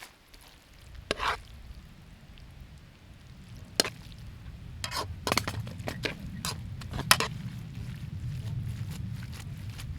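Camp cooking: a handful of sharp clinks and knocks of utensils against cookware over a low, steady rumble that builds from about a second in, fitting a camp gas stove burning under a pot.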